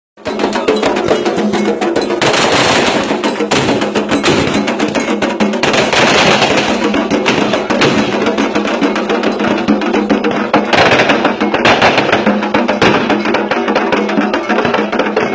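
Candomblé ritual percussion played in fast, dense strokes, with louder bursts of crackling noise about two, six and eleven seconds in.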